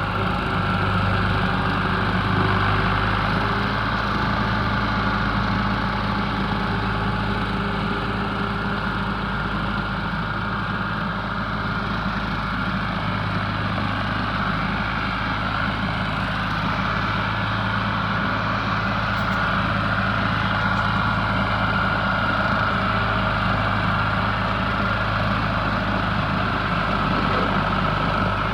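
Ford 4000 tractor's three-cylinder diesel engine running steadily, driving a seven-foot bush hog rotary cutter.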